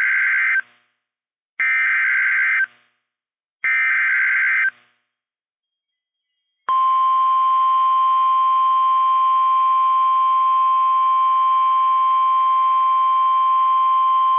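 NOAA Weather Radio emergency alert: the end of one SAME digital header burst and two more, each about a second of harsh data warble, then about two seconds of silence, then the steady 1050 Hz Warning Alarm Tone that signals a warning is about to be read.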